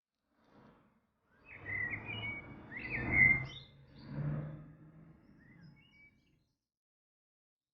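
A few short bird chirps over a low rumbling noise, starting about a second and a half in and fading out about six seconds in.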